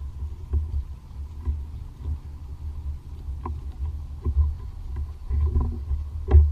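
Irregular low thumps and bumps on a kayak's hull, with a few sharp clicks and knocks, while a hooked ladyfish is being fought.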